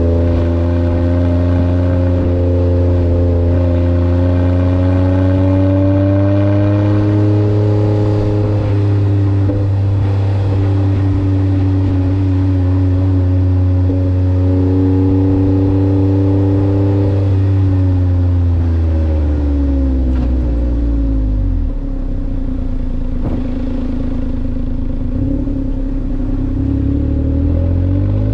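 Kei truck's 660 cc three-cylinder engine running through a new aftermarket muffler, held at raised revs with small blips, then dropping back to idle a little past the halfway mark and revving up again near the end.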